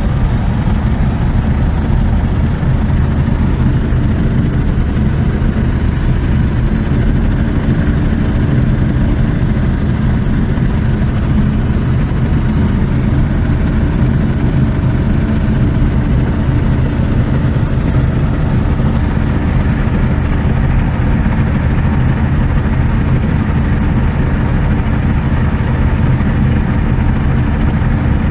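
Light aircraft's piston engine and propeller droning steadily with an even, low pitch, heard from inside the cockpit.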